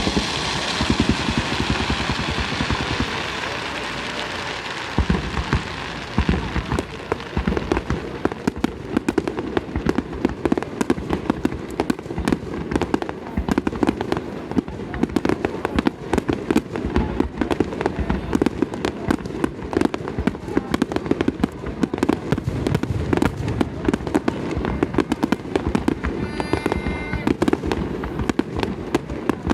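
Wide starmine fireworks barrage: a dense, rapid string of shell bursts going off one on top of another. A loud hiss over the bursts fades away in the first few seconds.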